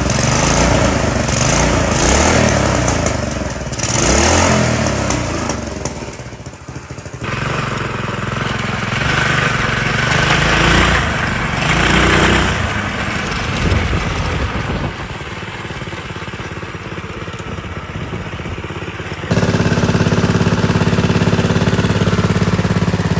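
Small engine of a mini bike running in a series of short clips, its pitch rising and falling. The last few seconds are a steady, even engine tone.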